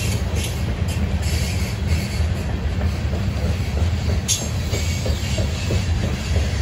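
Norfolk Southern freight train rolling past: a steady low rumble of the cars with sharp clicks of the wheels, the sharpest about four seconds in.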